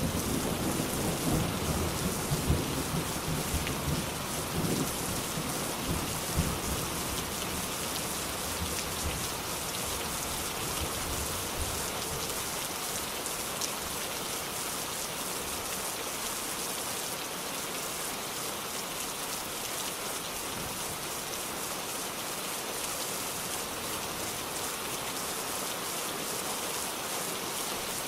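Rain falling steadily, with the low rumble of a roll of thunder dying away over the first ten seconds or so, then rain alone.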